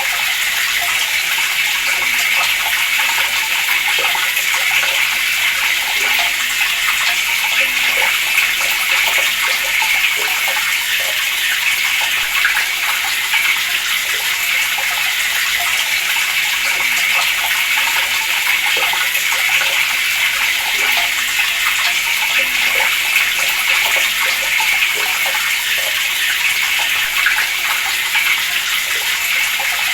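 Water running steadily from a tap, a continuous hissing splash with small flickers of spatter.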